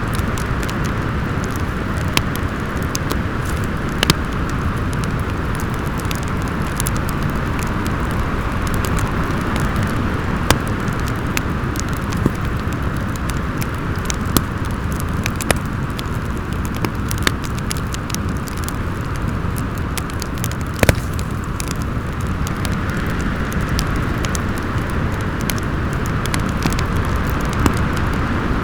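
Steady wind noise with a slowly swelling and easing howl, over a fireplace crackling with sharp pops at irregular intervals, one louder pop about two-thirds of the way through.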